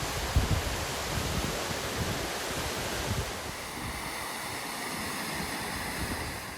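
Steady rush of moving water, with gusts of wind buffeting the microphone, one strongest about half a second in.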